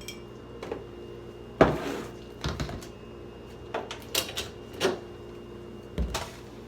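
Scattered knocks and clatter of food containers and bottles being taken out of a refrigerator and set down, about half a dozen in all, the loudest about one and a half seconds in. A steady low hum runs underneath.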